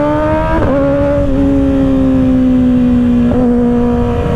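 Kawasaki Ninja ZX-6R 636's inline-four engine pulling under acceleration, its note rising. About half a second in there is a quick break in the note, then it runs on at a steady cruise, easing slowly down, with a brief blip near the end.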